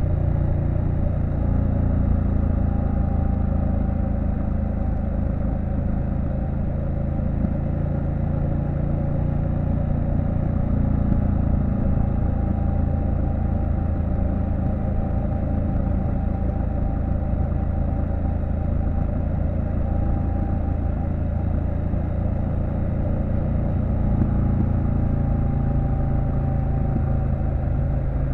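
Triumph Street Scrambler 900's parallel-twin engine running steadily under way, its pitch rising and falling a little as the throttle changes.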